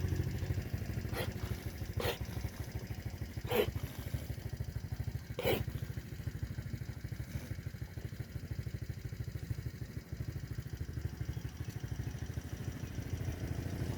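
A small engine idling steadily with a fast, even chugging beat. Four short sharp sounds cut in over it about one, two, three and a half and five and a half seconds in.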